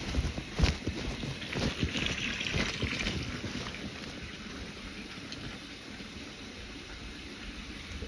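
Wind buffeting the microphone during a walk outdoors, with a few footstep knocks and a brief hiss in the first three seconds. After that it settles to a steadier, quieter background hiss.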